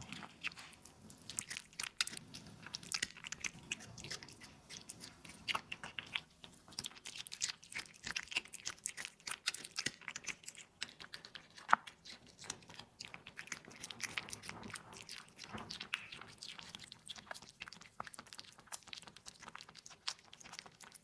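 A cat chewing and crunching its food, a dense, irregular run of sharp crunches and mouth clicks.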